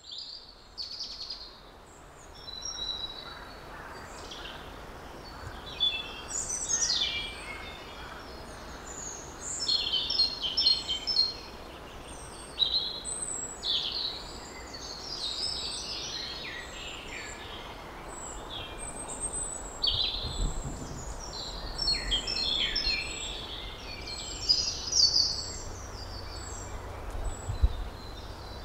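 Several wild birds singing and calling, one short phrase after another: chirps, trills and whistles, over a faint steady hiss.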